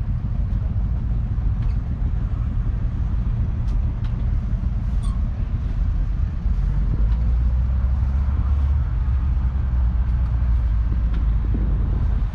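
Ford 6600 tractor's 4.2-litre four-cylinder diesel engine running with a steady low rumble, getting louder about six and a half seconds in.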